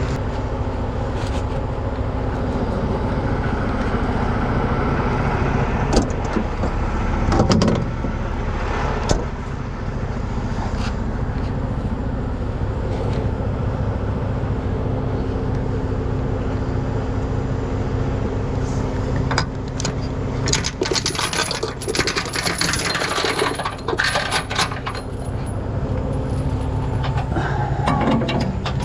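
Wrecker's diesel engine running steadily under a string of metal clinks and rattles from tow safety chains being handled and hooked. The clinking comes in a few single knocks, then grows dense and continuous in the second half.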